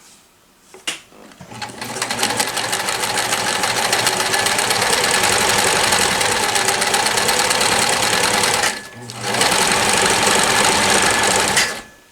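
New Home Model 108 sewing machine running at speed, stitching a blind hem stitch with a rapid steady needle clatter. A click comes just before it starts, and the machine stops briefly about three-quarters through, then runs again until shortly before the end.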